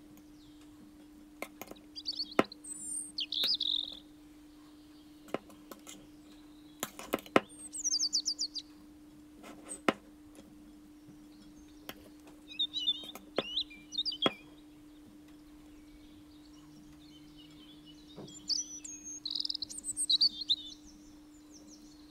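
Small birds chirping and twittering in short clusters, including a quick falling trill about eight seconds in, with scattered sharp clicks and a faint steady hum underneath.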